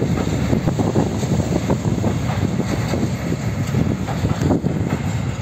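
Covered hopper wagons of a freight train rolling past close by: steady low rumble of wheels on rail with irregular knocks and rattles from the wagons.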